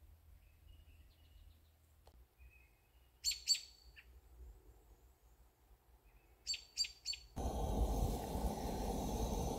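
Wild songbirds chirping: faint high calls, then two bursts of quick, sharp chirps a few seconds apart. Near the end a steady rushing noise starts suddenly.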